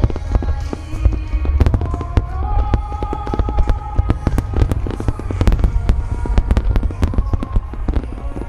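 A dense barrage of aerial firework shells bursting in rapid succession: many sharp reports a second over a constant deep rumble. Music plays over loudspeakers beneath it, with held notes.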